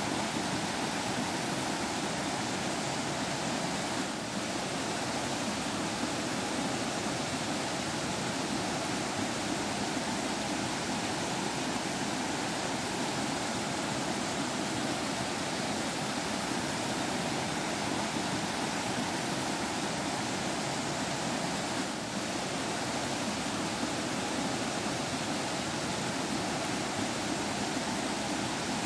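Stream water flowing and trickling, a steady, unbroken rush of water.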